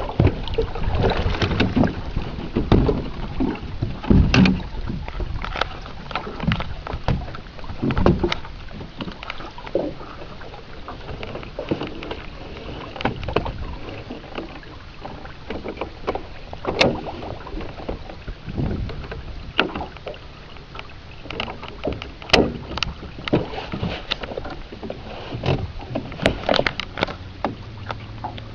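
Small aluminium jon boat underway on the water: a steady rush of water and wind, with irregular sharp knocks and splashes as the hull slaps across the water, more frequent in the first half.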